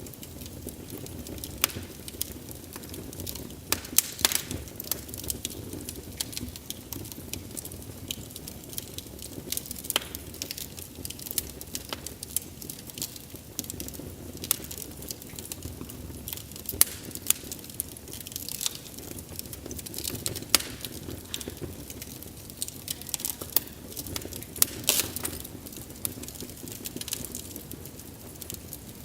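Wood fire crackling: frequent irregular sharp pops and snaps over a low steady rumble of burning.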